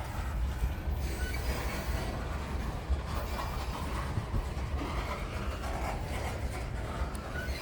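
Freight train rolling past on the rails: a steady low rumble of the cars with faint brief wheel squeal.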